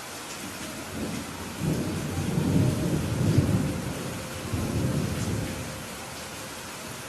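A roll of thunder that builds about a second in, peaks, and fades out over several seconds, over a steady hiss of falling rain.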